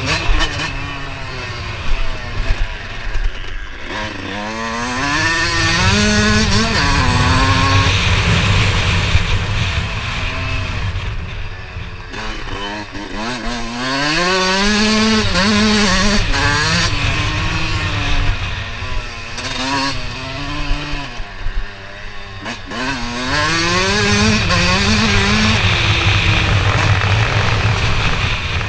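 Motocross motorcycle engines revving hard. The pitch climbs and drops in steps as the bikes accelerate and shift gears, in three or four runs, over a steady low engine rumble.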